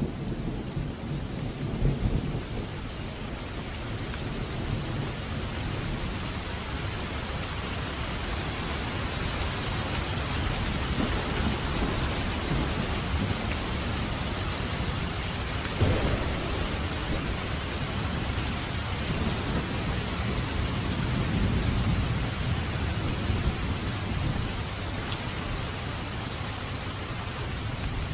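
Steady heavy rain on a roof with low rolling thunder. A sharper thunderclap comes about halfway through, and another rumble swells near the end.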